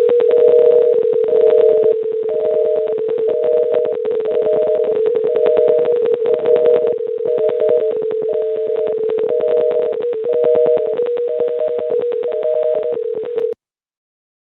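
Electronic tones over a telephone line: a steady hum-like tone with a higher beep about once a second, over heavy crackling distortion. It cuts off abruptly near the end.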